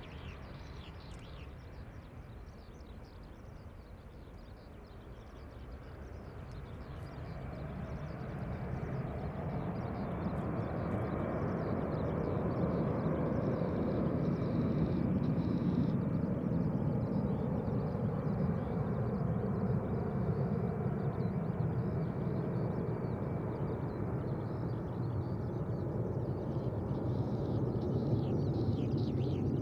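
Airbus A320's twin CFM56-5A1 turbofans at take-off power, heard from outside: the jet noise grows louder over several seconds from about six seconds in, then holds steady, its pitch slowly falling.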